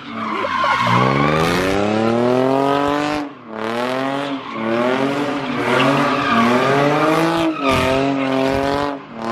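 A car's engine revving hard at high rpm during a burnout, its pitch climbing and holding with brief drops where the driver lifts off, with tyres squealing.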